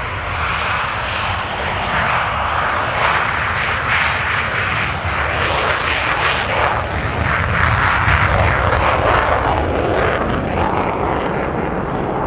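Loud, rough jet noise from the Saab AJS 37 Viggen's Volvo RM8 afterburning turbofan at high power. It swells toward the middle and eases a little near the end.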